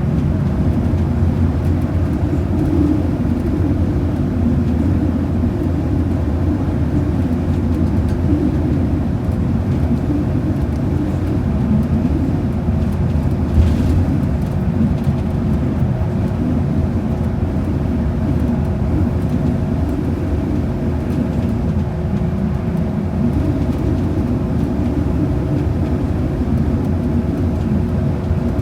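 Inside a transit bus running steadily: a dense low rumble of engine and road noise with a steady drivetrain hum over it. There is a single brief click about halfway through.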